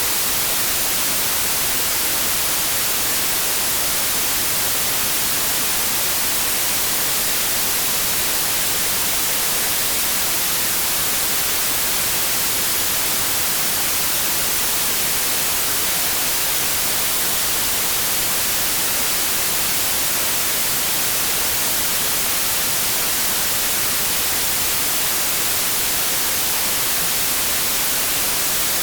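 Steady white noise: an even, unchanging hiss like radio static, with no tones or events in it.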